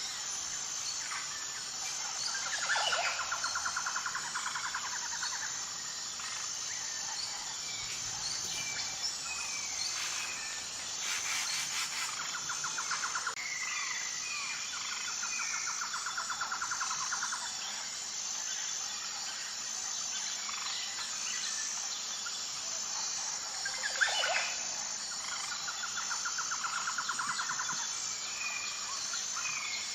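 Wild birds calling: scattered chirps and quick falling calls, with a rapid pulsing trill repeated several times, each lasting a second or more. Underneath runs a steady, high, pulsing insect chorus.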